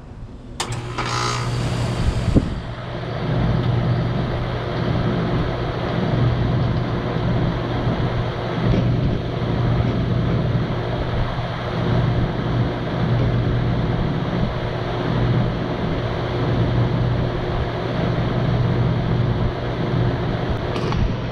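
A 2012 Bryant Legacy Line 2.5-ton central air conditioner condensing unit starting up. A click comes just under a second in, then a brief loud rush for about two seconds. After that the scroll compressor hums and the condenser fan runs steadily.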